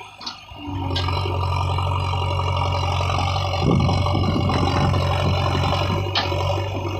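JCB 3DX backhoe loader's diesel engine running steadily, starting after a brief gap near the start and growing louder and rougher about three and a half seconds in, with a few sharp clicks.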